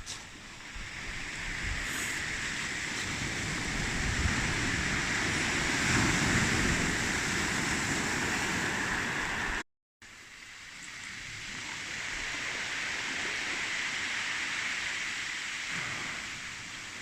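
Sea surf washing onto the beach, swelling and easing twice, with wind rumbling on the microphone. A brief dropout to silence comes just before the middle.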